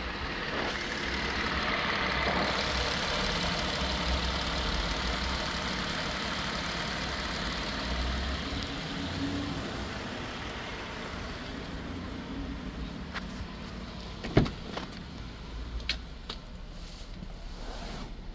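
2023 Hyundai Staria's 3.5-litre petrol V6 idling steadily, louder at first and quieter in the second half. A single sharp knock about fourteen seconds in, followed by a few lighter clicks.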